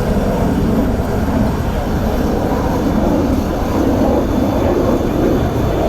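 Su-30SM jet fighters flying a display, their engines making a loud, steady jet rumble heavy in the low end.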